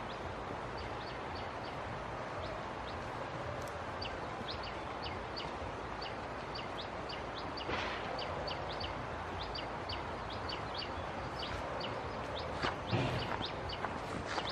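Birds chirping: rapid short high peeps, several a second, over a steady outdoor background, with a brief knock about halfway and a couple more near the end.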